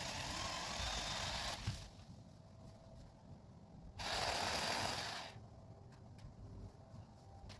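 Chainsaw cutting into a storm-broken conifer limb. It runs for about a second and a half and stops with a sharp crack, then gives a second burst of about a second near the middle.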